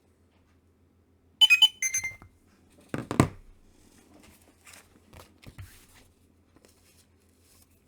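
A quick run of short, high electronic beeps about a second and a half in, followed about a second later by a single thump and a few faint handling clicks.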